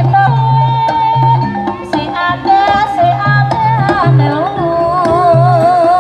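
Traditional Javanese music played live: repeated low hand-drum beats under a high melody line that wavers up and down.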